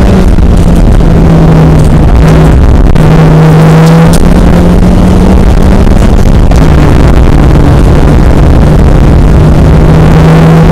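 Car engine running hard under load, heard from inside the cabin, loud enough to overload the onboard microphone. The engine note holds fairly steady with a brief lift about three seconds in.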